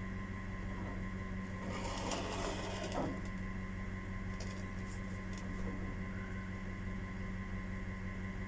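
Steady low electrical hum, with a short burst of scraping handling noise about two seconds in and a few light clicks around the middle.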